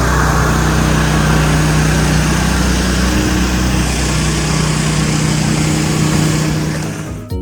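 An engine running steadily at an even speed, then fading out in the last moment.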